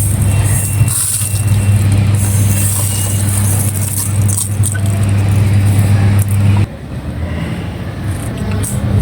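Dry red sand clay crumbling and crunching, with a crackle of small clicks. Under it runs a steady low hum that cuts out suddenly about two-thirds of the way through.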